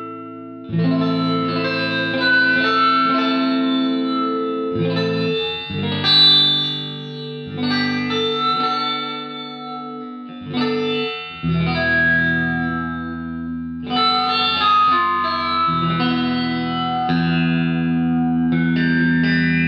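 Electric guitar played through a TC Electronic Corona Chorus pedal set to a custom modulation TonePrint, strumming chords and letting each ring for one to four seconds before the next.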